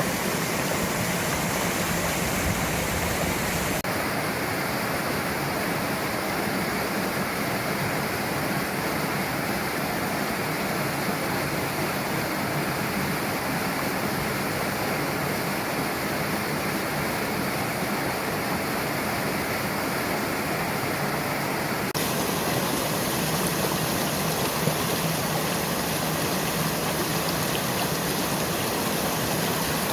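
Mountain stream water rushing steadily over rocks. The sound shifts abruptly twice, about four seconds in and again after about twenty-two seconds, as if a different stretch of the stream is heard.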